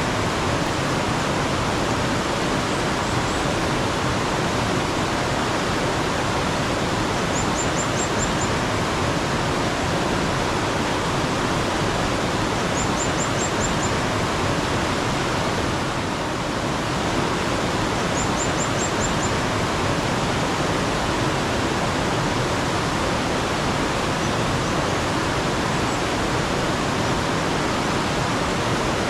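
Mountain stream water flowing steadily. A small bird repeats a quick run of about five high chirps, four times, roughly every five and a half seconds.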